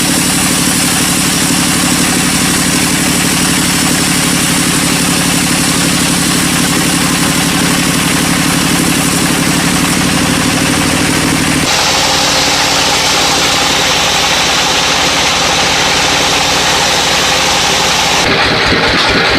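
Sawmill machinery running: a loud, steady engine drone with a constant hum. It changes character abruptly about twelve seconds in and again near the end.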